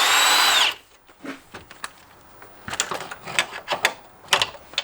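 Cordless electric ratchet running with a high whine that drops in pitch and stops under a second in, while undoing a motor mount bolt. Scattered faint clicks and knocks of tools and metal follow.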